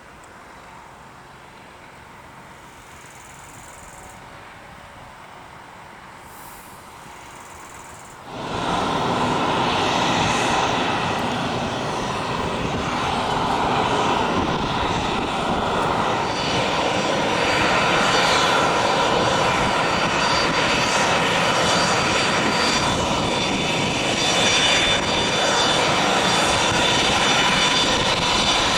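Business jet turbofan engines running loud and steady with a high whine, coming in abruptly about eight seconds in after a quieter stretch of faint jet noise.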